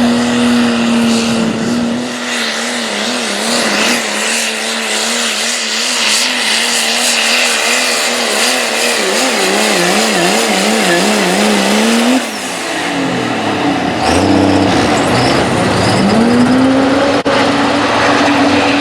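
Diesel four-wheel-drive pulling truck's engine running hard under load during a pull. The engine note holds steady, then wavers rapidly up and down for several seconds, drops sharply about twelve seconds in, and climbs back up to a steady high note a few seconds later.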